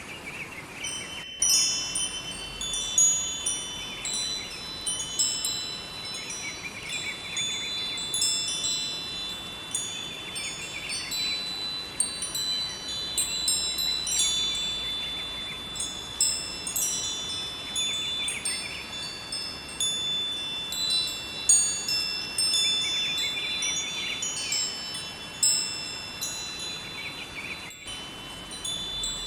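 Wind chimes ringing in a continuous, random cascade of clear high tones over the steady rush of a river.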